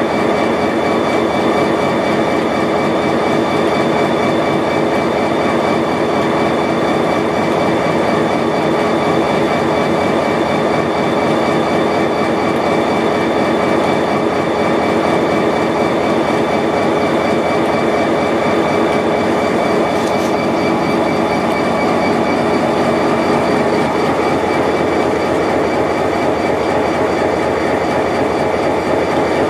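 Freight train of the Dakota, Minnesota and Eastern Railroad rolling steadily along the track, heard from aboard: a constant rumble of wheels on rail with clickety-clack and a few thin, steady high ringing tones over it.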